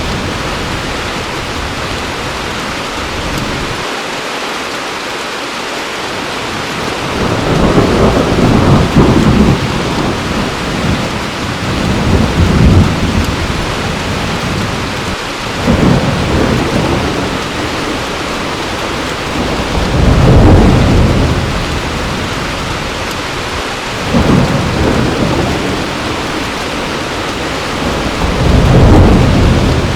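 Heavy rain falling steadily, with rolls of thunder rumbling over it every few seconds. The loudest rolls come about a third of the way in, around two-thirds of the way, and near the end.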